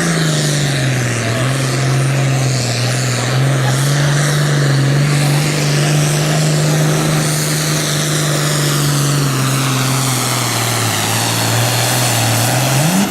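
Turbocharged diesel engine of a John Deere Super Farm pulling tractor running flat out under load from a pulling sled. It holds a steady, heavy note that sags slightly as it bogs, then revs up sharply near the end.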